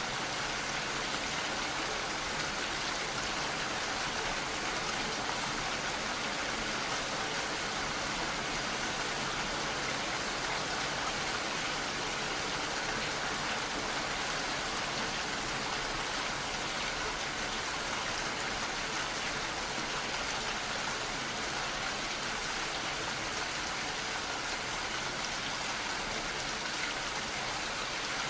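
Steady rain falling, an even hiss of many drops with no breaks or single distinct impacts.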